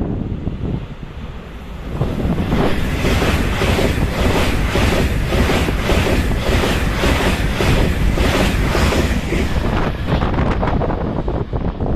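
A train passing close by at speed: a loud rush of noise that swells about two seconds in, with a rapid, even clatter of wheels over the rails, and wind buffeting the microphone, easing off near the end.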